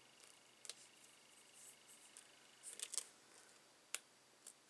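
Faint paper clicks and crinkles as the small release-paper backings are picked off foam adhesive dimensionals: a single click about a second in, a quick cluster around the middle, then two more near the end.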